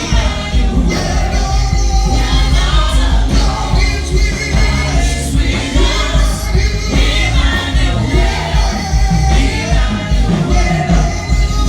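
A singer performing with live band accompaniment, over a strong, steady bass.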